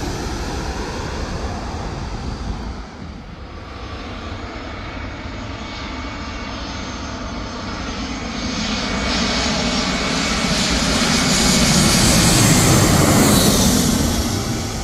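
Airliner jet engines on a low landing approach. The roar dips about three seconds in, then swells to a loud peak near the end as the plane passes, falling in pitch as it goes away.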